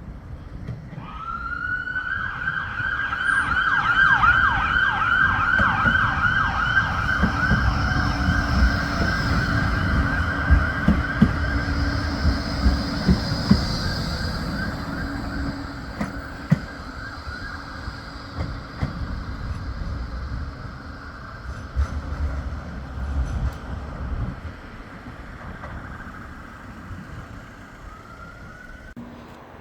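Bombardier Flexity 2 tram running, its traction drive giving a high electric whine that rises steeply about a second in, wavers for several seconds, then holds one steady pitch. Underneath, the wheels rumble with sharp clicks over the rail. The sound swells to a peak and slowly fades.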